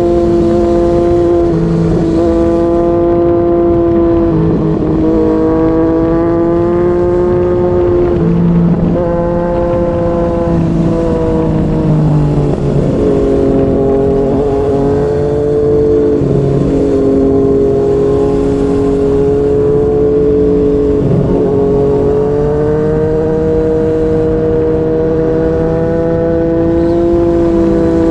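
Yamaha MT-09's three-cylinder engine through a Yoshimura R55 slip-on exhaust, under way at steady cruising revs. Its pitch drifts gently up and down, with a few brief dips on throttle changes and a rise near the end.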